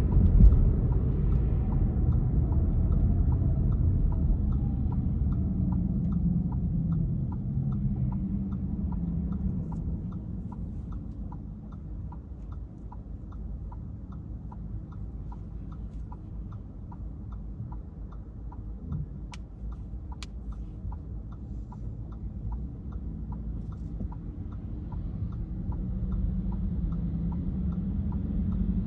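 Car driving, with low road and engine rumble that eases for a stretch in the middle as the car slows, then builds again. A steady ticking at about two a second runs throughout, and two sharp clicks come about two-thirds of the way in.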